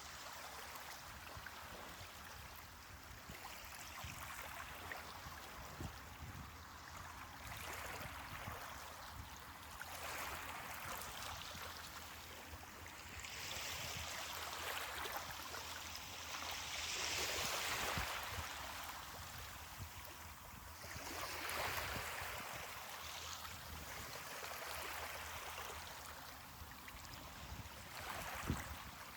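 Ocean waves washing onto a beach: a steady hiss of surf that swells and fades every few seconds, loudest a little past halfway. A single short tick sounds near the end.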